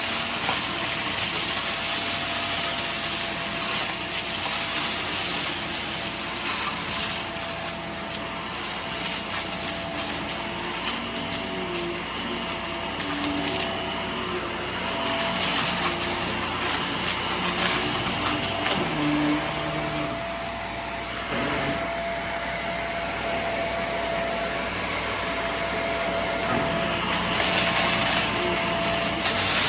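Vacuum cleaner running continuously with a steady motor whine over a rushing airflow. Its sound shifts in level and pitch as it is worked over the test mess, with scattered crackles from debris being sucked up.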